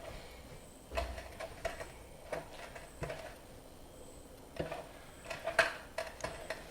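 Hands mixing a damp blend of semolina, grated coconut, sesame and cumin in a bowl: soft rustling with irregular light clicks and taps against the bowl.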